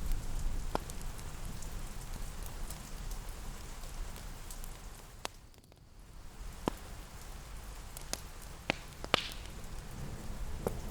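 Steady rain pattering, with scattered sharp crackles and clicks over it. A low rumble dies away in the first second, and the rain dips almost to nothing for a moment a little past the middle before coming back.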